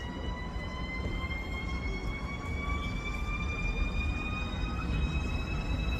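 DB ICE 4 high-speed train pulling away: its electric traction drive whines in several stacked tones that rise slowly in pitch as it accelerates, over a low rumble.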